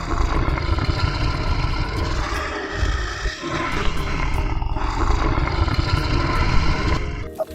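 A large animal's long, loud, rough call with deep low rumble, dipping briefly about three seconds in and stopping about seven seconds in.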